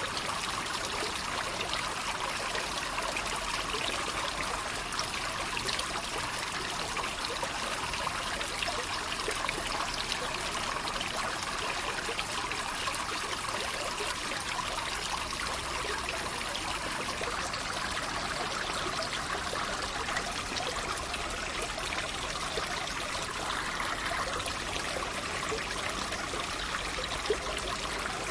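Water trickling and splashing steadily, like a small stream, as an even rushing without any rhythm. One brief tap sounds near the end.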